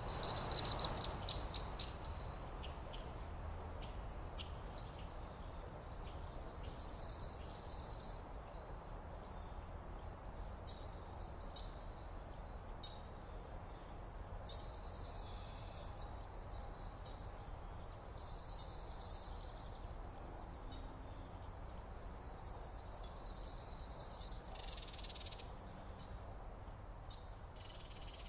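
Small birds calling: a loud, rapid high-pitched chattering call up close in the first second, then scattered faint high chirps over a low steady outdoor hiss.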